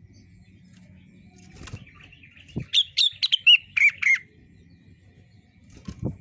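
Rengganis songbird singing a quick burst of about eight sharp whistled notes, about three seconds in. Several soft thuds come before and after the song.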